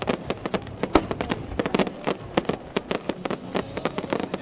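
Aerial fireworks going off in a rapid, irregular string of sharp bangs and crackles, the loudest bang about a second in.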